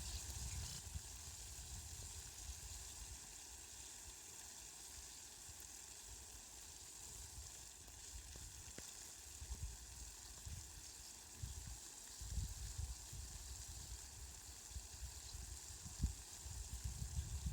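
Steady hiss of falling rain, with low rumbles coming and going underneath.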